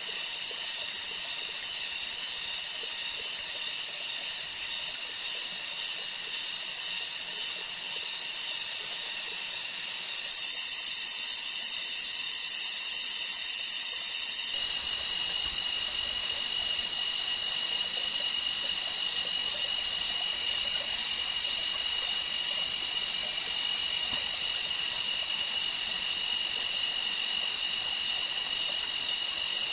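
Rainforest insects, cicada-like, keeping up a steady high-pitched shrill drone with a fast pulsing texture. A second steady high tone joins about halfway through.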